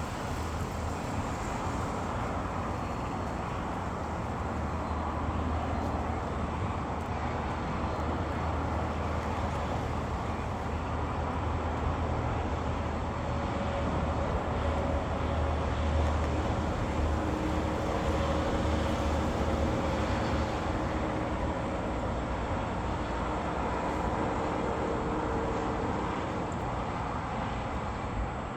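Vehicle driving steadily: continuous engine and road noise with a deep low rumble.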